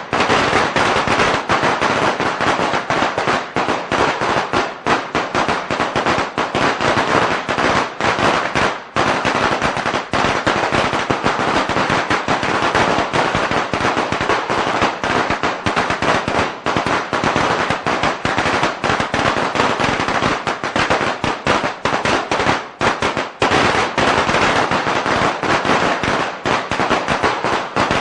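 A long string of Chinese firecrackers (鞭炮) going off in a dense, continuous crackle of rapid sharp bangs, with a brief lull about nine seconds in.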